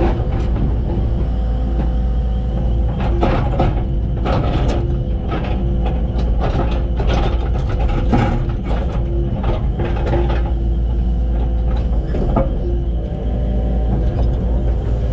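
Excavator's diesel engine running steadily, with a run of sharp clanks and scrapes from the machine at work from about three seconds in until about ten seconds.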